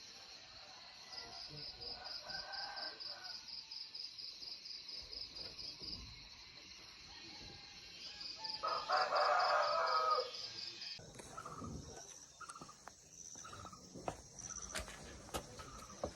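A rooster crows once, about nine seconds in, over a high, fast-pulsing insect chorus. A few sharp clicks follow in the last few seconds.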